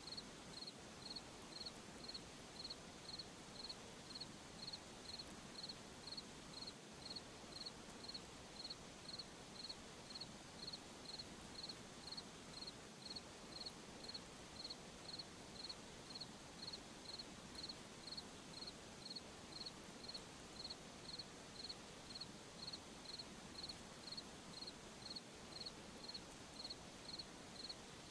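A cricket chirping steadily at night, a high chirp repeated about twice a second, over a faint steady hiss.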